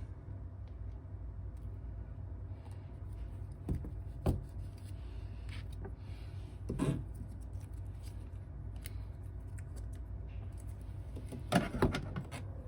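A few small clicks and taps of a phone and repair tools being handled on a workbench, over a steady low hum.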